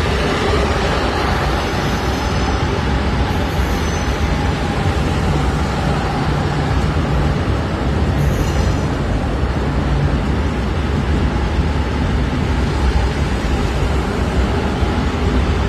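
A train running by: a steady, even rumble of wheels and running gear that holds at one level.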